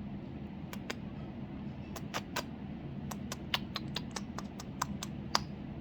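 Faint, irregular small clicks from a Quaker parrot's beak as she nibbles, a few at first and then several a second from about two seconds in.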